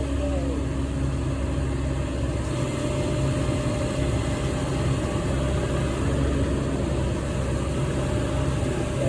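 An engine running steadily: a low, even hum with no knocks or crashes.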